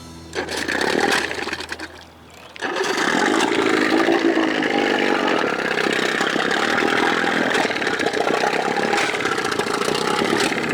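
Two-cylinder two-stroke 2000 Johnson 25 hp outboard running, with a short dip about two seconds in before it carries on steadily. It is popping, which the owner says it shouldn't do; he suspects a carburettor mixture problem, too much fuel or not enough air.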